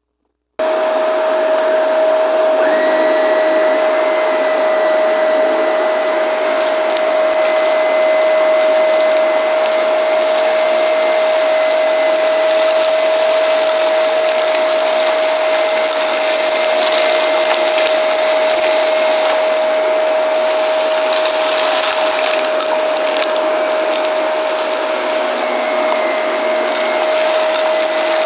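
Shark vacuum cleaner switching on about half a second in and running steadily with a high motor whine, with scattered crackles as debris is sucked up.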